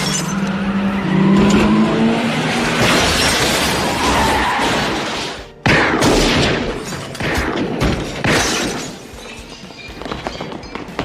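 A police car accelerating, then about halfway through a sudden crash as it drives through a storefront, with glass shattering and debris clattering, under film music.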